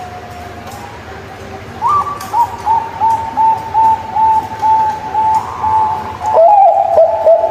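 Zebra dove cooing: a series of short, evenly repeated coos on a nearly steady pitch, about two a second, starting about two seconds in. Near the end a louder, slightly lower run of coos takes over.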